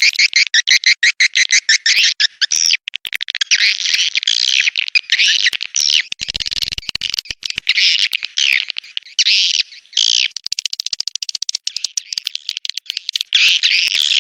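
Swiftlets calling, a lure recording of their courtship calls: rapid high-pitched trains of sharp chirps running into twittering chatters, with short gaps between bursts.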